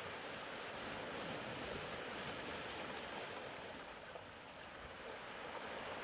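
Faint ocean-surf ambience: a steady wash of wave noise that ebbs slightly about four seconds in and swells back.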